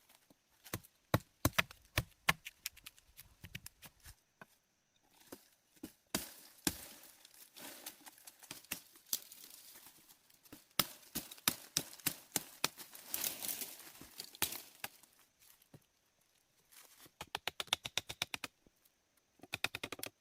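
Handling sounds: irregular sharp cracks and clicks with stretches of rustling in the middle, and a quick run of clicks near the end.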